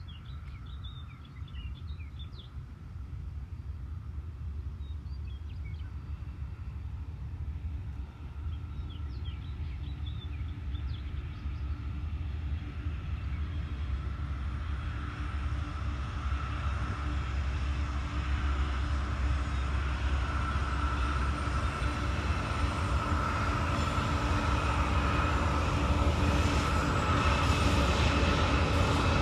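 Diesel locomotives at the head of a freight train approaching. Their engine drone and rail noise grow steadily louder.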